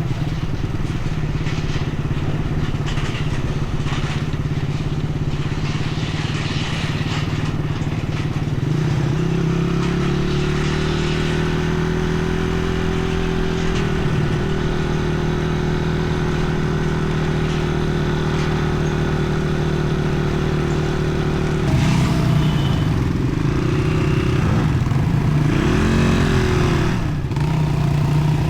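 Dirt bike engine running while riding, holding a steady pitch through the middle stretch, with the revs rising and falling several times near the end.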